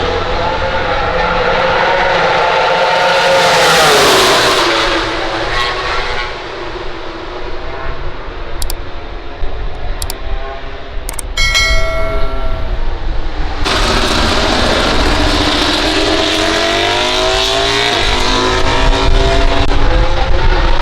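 MotoGP racing motorcycles' four-cylinder engines at high revs. One bike passes with its note dropping sharply about four seconds in. After a quieter stretch, another comes in suddenly and accelerates away, its pitch climbing through several upshifts.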